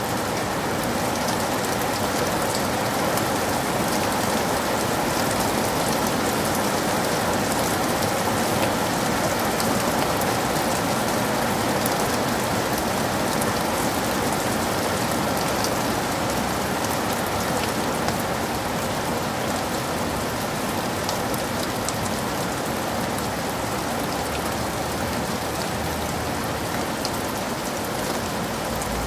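Heavy rain falling steadily: an even hiss with individual drops ticking through it.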